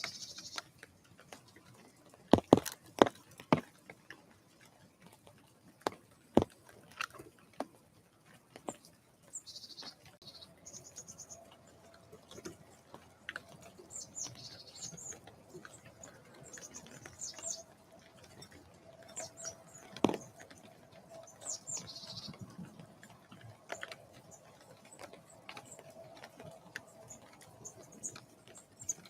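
Scattered sharp taps and knocks at a bird feeder, with short, high chirping calls of small birds coming in clusters from about ten seconds in. A faint steady hum also starts about then.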